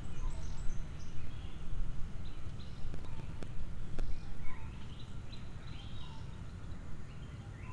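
Outdoor birds chirping in short, scattered high calls over a low, uneven rumble, with a few faint clicks about three to four seconds in.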